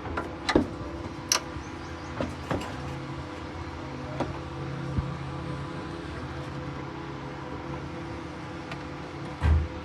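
Steady mechanical hum with a few sharp metallic clicks and knocks, and a louder thump near the end.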